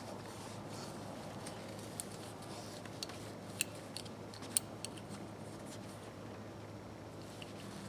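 Scattered light metallic clicks and taps from small parts of a Snap-on F723A 3/8 ratchet being handled during cleaning, two of them sharper about three and a half and four and a half seconds in, over a faint steady hum.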